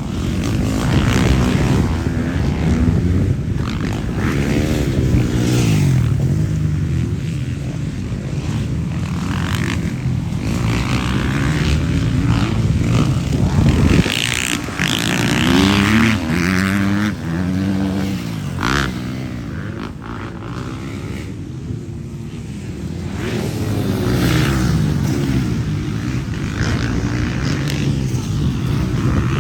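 Motocross motorcycles racing past, their engines revving up and down through the gears in repeated waves, loudest about halfway through.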